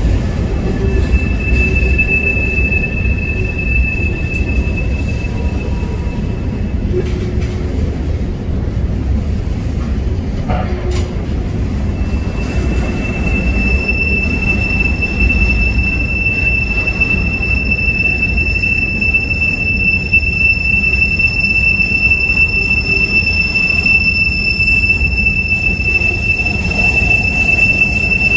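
Freight train rolling past with a steady low rumble of wheels on rail and a high, steady wheel squeal. The squeal sounds briefly about a second in, then returns at about the halfway mark and holds to the end, with a second, higher squeal tone joining it.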